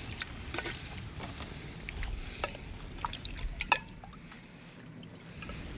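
Risotto simmering in a pan over a campfire: scattered soft bubbling pops and small clicks.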